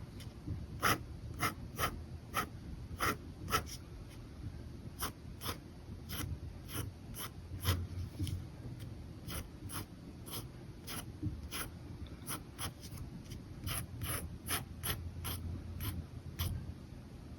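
Ink pen scratching on paper in short, quick strokes, about two to three a second.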